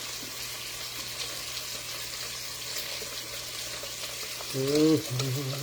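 Lamb chops frying in a pan: a steady sizzling hiss. A man's voice comes in briefly near the end.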